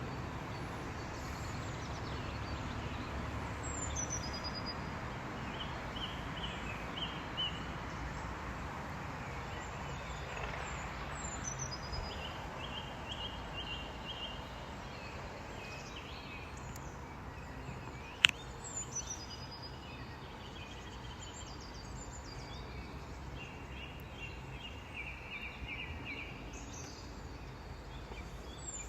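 Small birds chirping repeatedly, with short high falling notes and brief trills, over a steady low hum. A single sharp click about eighteen seconds in.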